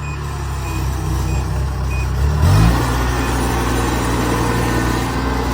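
Kubota DC70G Plus combine harvester's diesel engine running, with a reverse-warning beeper sounding about every two-thirds of a second for the first two seconds. About two and a half seconds in the engine revs up quickly and holds at the higher speed.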